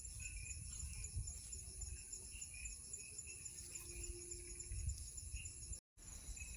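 Night chorus of crickets and other insects: a steady high-pitched trilling with pulsing trills and repeated short chirps, over a low rumble. The sound drops out for an instant near the end.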